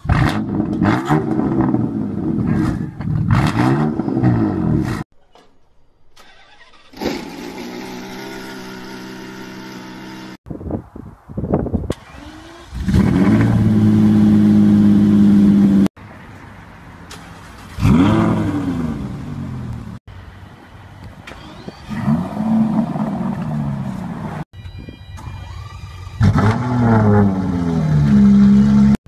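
A run of high-performance car engines, one after another with abrupt cuts between them. A BMW M4's twin-turbo straight-six is blipped several times at the start. A Lamborghini Diablo SV's V12 is held steady and loud in the middle. An Aston Martin One-77's V12 revs up and down near the end.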